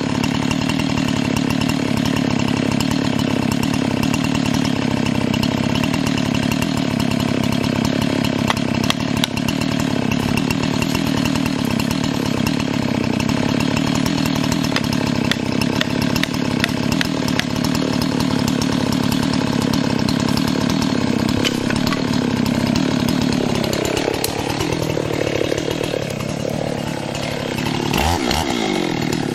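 Husqvarna 385 XP two-stroke chainsaw cutting through black cherry wood at full throttle, steady under load. A little past the 24-second mark the sound changes, and near the end the engine pitch drops sharply as the saw comes off throttle.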